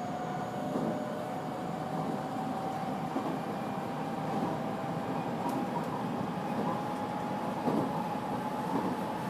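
Electric train running, heard from inside the car: a steady rumble of wheels on rail with a thin whine that slowly rises in pitch, and a few light knocks.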